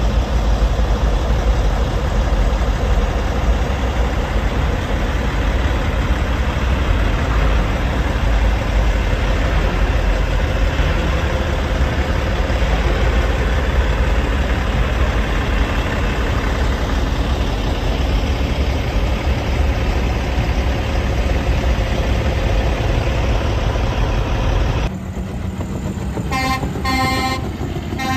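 A heavy truck running loudly with a deep, steady rumble; near the end the rumble drops and the truck's horn gives several short toots.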